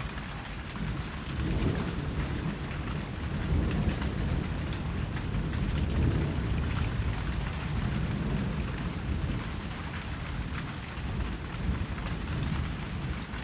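Steady rain hissing, with thunder rumbling low underneath in slow swells that rise and fall every few seconds.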